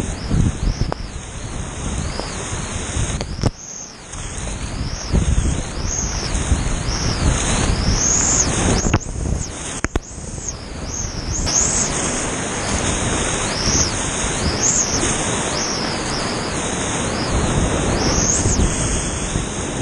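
Rushing creek whitewater around a kayak, a steady loud wash of water noise. It dips briefly twice, about four and ten seconds in.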